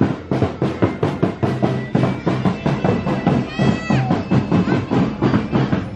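Parade music with drums beating a fast, steady rhythm over low sustained notes, with a short high sound falling in pitch about three and a half seconds in.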